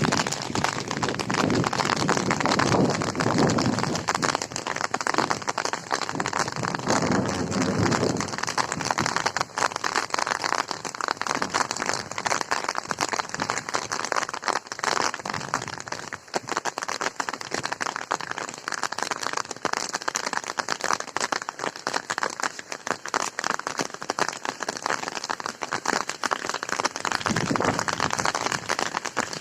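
Steady heavy rain falling, a dense patter of drops that swells a little a few seconds in and again near the end.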